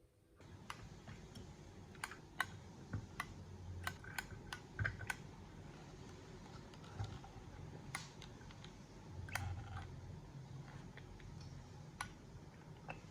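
Light, irregular clicks and taps of small hard parts being handled, over a low rumble.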